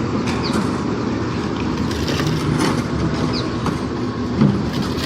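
Concrete mixer machine running steadily, with scattered clatter throughout.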